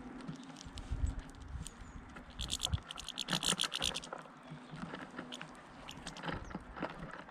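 Goldfinches feeding at a seed feeder: scattered sharp clicks and taps of beaks husking seed. About two and a half seconds in, a rapid high rattling burst lasts about a second and a half.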